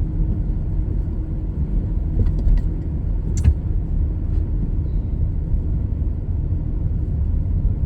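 Steady low rumble of road and engine noise heard from inside a moving car, with one sharp click about three and a half seconds in.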